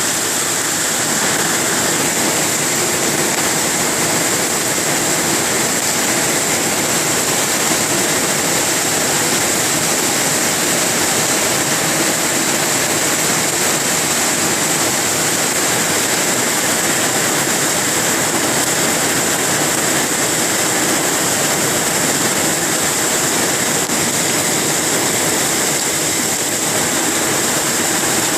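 Heavy tropical-storm rain pouring steadily, a dense unbroken hiss of downpour.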